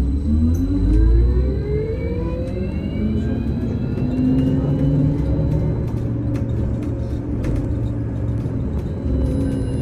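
VMZ Avangard trolleybus pulling away, heard from inside the cabin: the electric traction drive whines, rising in pitch over the first four or five seconds and then holding steady, over the rumble of the road.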